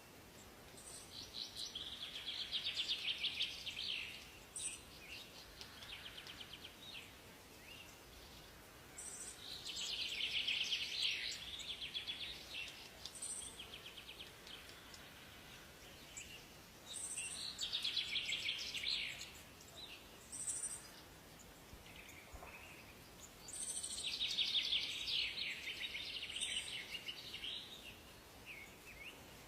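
Songbird singing in a forest: four rapid trilled song phrases of a couple of seconds each, repeated about every seven seconds, with short high chirps between them over a faint steady background hiss.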